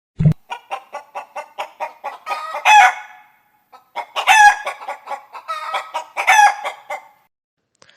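Hen cackling: two runs of rapid clucks, each building to a loud drawn-out squawk. A brief low thump comes at the very start.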